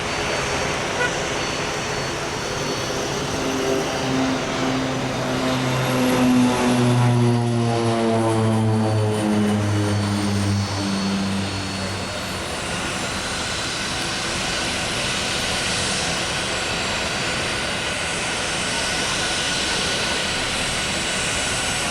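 Propeller aircraft passing by, its engine and propeller drone dropping in pitch as it goes past, then fading into steady background noise.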